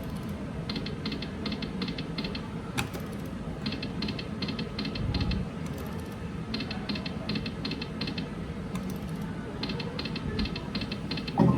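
Eagle Bucks slot machine ticking in quick runs of six or seven clicks, a run about every three seconds as spin follows spin, with one sharper click about three seconds in, over a low steady casino din.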